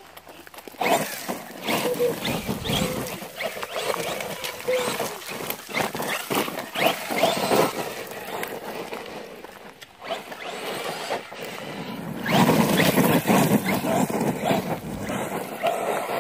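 Electric brushless RC monster trucks driving over dirt: motor and drivetrain whine with tyres churning dirt and frequent knocks and rattles. The driving starts about a second in, dips near the middle and is loudest in a long run near the end.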